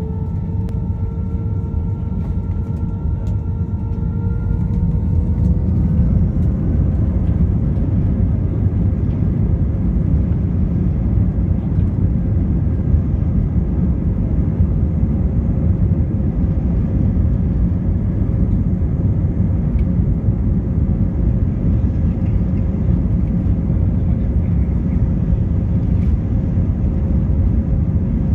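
Jet airliner engines spooling up for takeoff, with a whine rising in pitch over the first few seconds. A heavy, steady rumble builds with it and holds through the takeoff roll.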